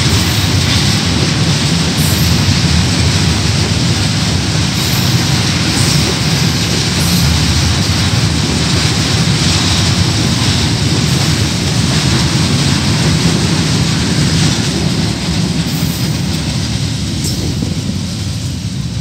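KiwiRail coal train rolling past with a steady rumble of wheels on rail, growing gradually quieter over the last few seconds as it moves away.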